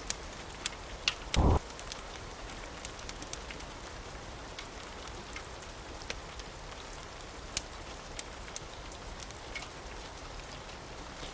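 Steady rain, with scattered sharp crackles and ticks over it. A short, heavy low thud comes about a second and a half in and is the loudest sound.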